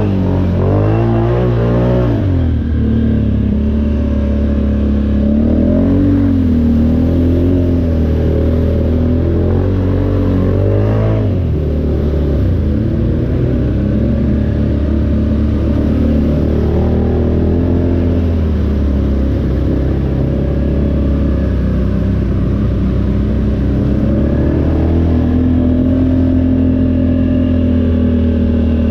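ATV engine running under throttle, its pitch rising and falling as the rider revs and eases off, with a sudden drop in revs about eleven seconds in.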